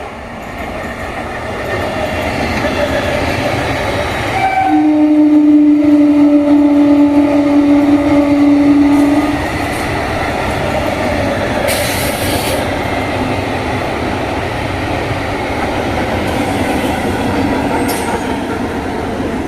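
Electric multiple-unit (MEMU/EMU) train approaching and running through at speed, with continuous noise of the coaches and wheels on the track. Its horn sounds one long, steady blast of about four and a half seconds, starting about five seconds in.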